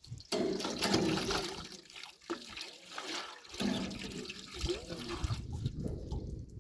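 Water pouring and splashing unevenly, starting about a third of a second in and breaking off briefly twice.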